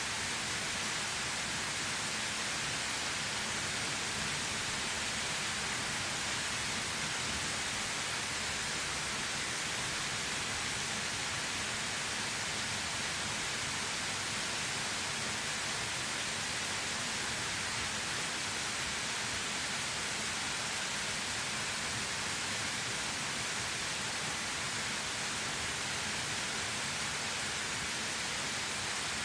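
Waterfall: falling water running in a steady, even rush, strongest in the high hiss, with no other events.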